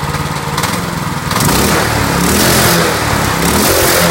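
Predator 212cc single-cylinder four-stroke engine running, then revved up about a second and a half in and held at higher speed.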